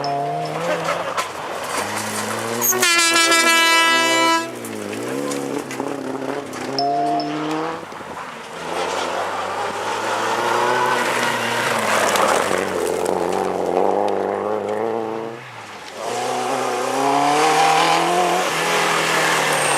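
Rally car engines revving up and down as the cars drive hard, in several short passages. A loud, steady high-pitched tone sounds for about a second and a half, about three seconds in.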